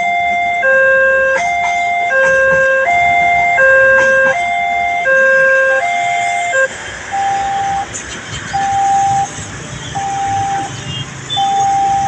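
Railroad level-crossing electronic warning alarm sounding a repeating two-tone pattern, alternating between a lower and a higher tone about every 0.7 seconds. About halfway through it switches to a single repeated beep, with a rushing noise underneath.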